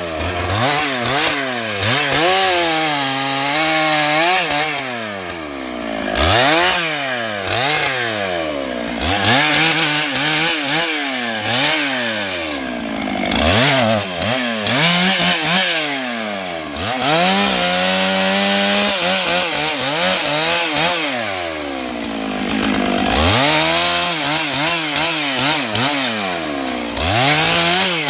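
Stihl MS 661 two-stroke chainsaw running hard, its engine pitch climbing, holding and dropping again every few seconds as it is revved up and eased off repeatedly.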